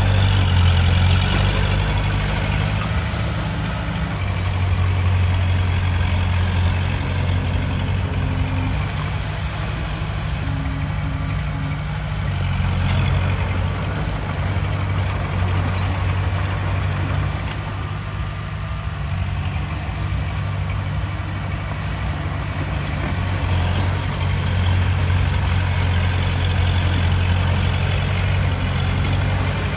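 Heavy diesel earthmoving machinery running: a deep, steady engine drone that swells and eases several times.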